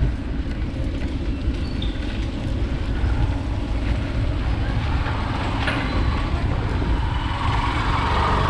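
Steady low rumble of wind buffeting the microphone, mixed with road and traffic noise, while riding a bike along a road.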